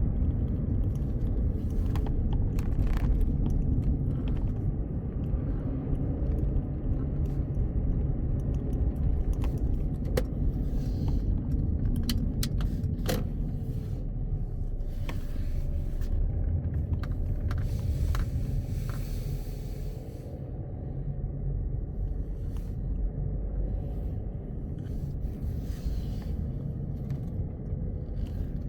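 A car driving on the highway: a steady low road and engine rumble, with scattered small clicks and rattles.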